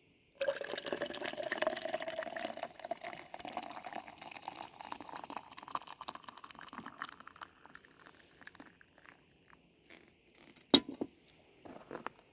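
Hot coffee poured from a percolator into a cup, the pitch rising steadily as the cup fills, then thinning out after about seven seconds. A single sharp clink comes near the end.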